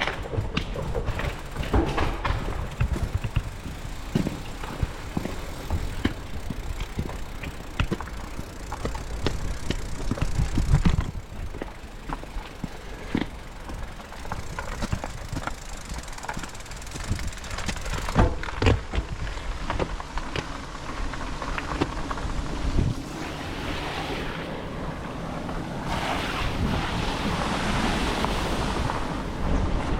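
Riding a bicycle on wet roads: wind buffeting the microphone, tyre noise and scattered knocks and rattles from the bike. A broad hiss of wet tyres builds over the last few seconds.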